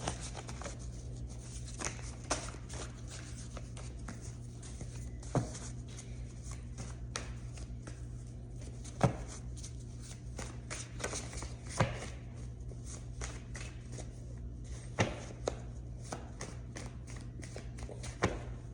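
A tarot deck being shuffled by hand: a steady run of soft card flicks and rustles, with a few sharper snaps scattered through. A low, steady hum runs underneath.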